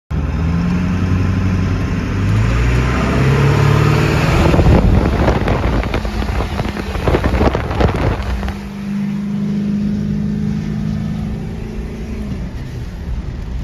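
Ford 7.3 Powerstroke turbo-diesel V8 running through a 5-inch exhaust with a 10-inch tip: a deep exhaust rumble whose pitch climbs over the first few seconds as it pulls, rougher and louder in the middle, then settling to a steady drone that eases off near the end.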